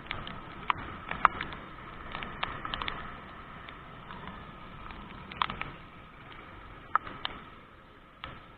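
Rain: a steady hiss with irregular sharp taps of drops landing close by.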